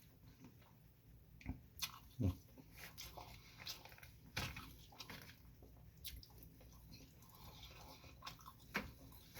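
A person chewing food with the mouth close to the microphone: scattered wet smacks and small clicks, with a short hummed "mm" of enjoyment about two seconds in.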